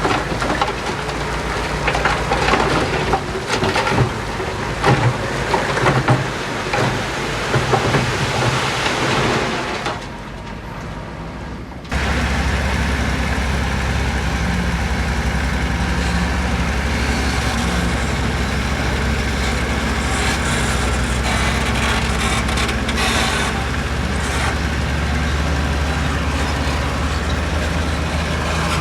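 Heavy diesel construction machinery working. For about the first ten seconds an engine runs under irregular clanks and rattles, then there is a brief quieter stretch. From about twelve seconds in, a steady, deep diesel engine drone takes over.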